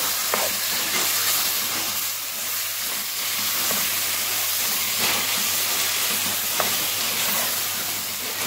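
Freshly added raw minced mutton sizzling in hot oil in a pan, a steady frying hiss, with a few light scrapes as a spatula stirs and turns it to brown it.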